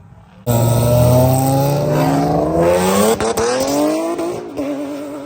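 Car engine and loud exhaust accelerating hard: it comes in suddenly about half a second in, the pitch climbs steadily, breaks briefly a little past three seconds in, climbs again, then settles lower and fades.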